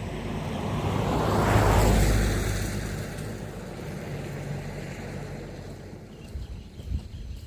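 A motor vehicle passing by: a low engine hum that swells to its loudest about two seconds in and then slowly fades.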